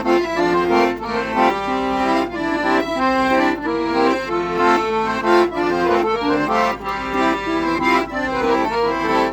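Accordion (sanfona) playing a lively forró melody in quick changing notes, over a steady beat.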